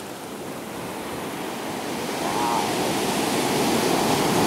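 Ocean surf rushing in, the wash of a large wave swelling steadily louder.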